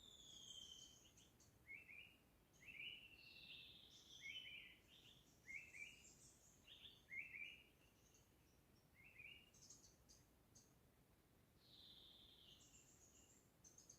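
Wild birds calling faintly: a run of short rising chirps about once a second, with higher down-slurred whistles and thin calls from at least one other bird over them.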